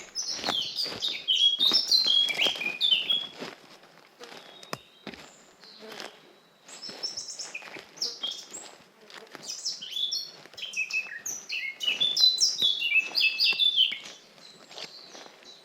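A songbird singing in the forest: three long phrases of quick, high, falling notes, separated by short pauses.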